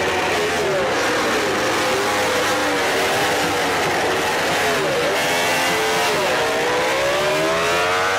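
Several MotoGP racing motorcycles running at high revs, their engine notes overlapping. About six and a half seconds in, the pitch drops as they brake and shift down, then climbs again as they accelerate away.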